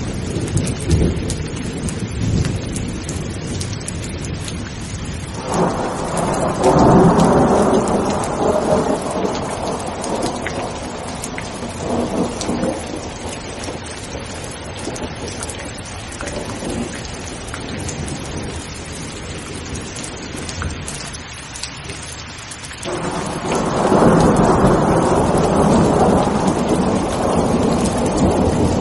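Steady heavy rain with rolling thunder: one long rumble swells up about five seconds in and fades over several seconds, and another begins near the end and grows louder.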